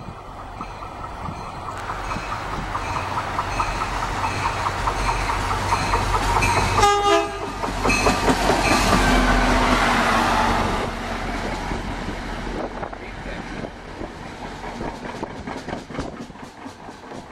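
NJ Transit GP-series diesel locomotive approaching and passing close, getting louder, with a repeated ringing that fits its bell. It gives a short horn blast about seven seconds in. After that, train wheels clickety-clack as passenger cars roll by.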